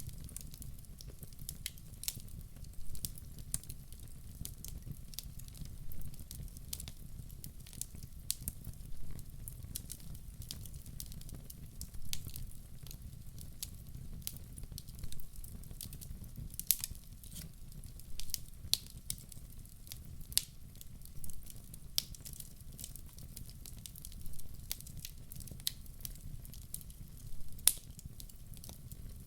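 Wood logs burning in a fireplace: a low steady rumble of flame with frequent sharp crackles and pops, some much louder than others.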